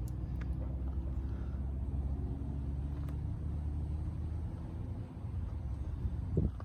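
A motor running steadily with a low, even hum that eases off about five seconds in, with a brief knock near the end.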